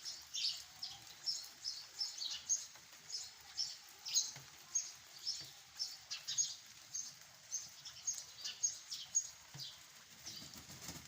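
Birds chirping: many short, high chirps, two or three a second, over a faint steady background.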